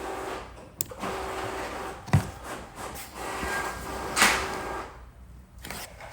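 Printer running, a steady mechanical whir with a faint hum, with a knock about two seconds in and a sharper rustle about four seconds in; it stops about five seconds in.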